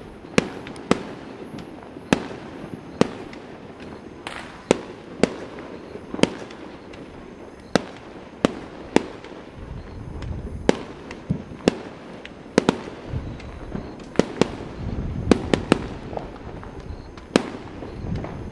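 New Year fireworks going off: many sharp cracks and bangs at irregular intervals, with a low rumble about ten seconds in and again around fifteen seconds.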